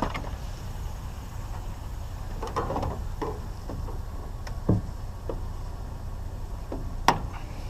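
Scattered light knocks and clicks, about half a dozen, from scrap being handled, over a steady low rumble.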